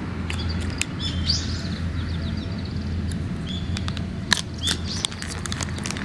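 Small birds chirping in short, high notes, several about a second in and again near the end, over a steady low outdoor rumble. A few sharp clicks come from a cat crunching dry kibble.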